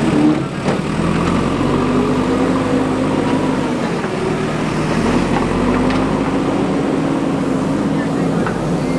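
Diesel engine of a JCB 3DX backhoe loader running under working load, its pitch rising and falling as it revs, with a few short knocks.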